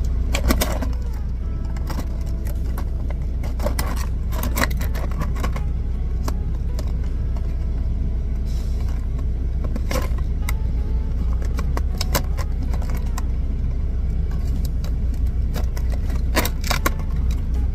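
Steady low rumble of a semi truck's diesel engine, with scattered clicks and rattles of things being handled.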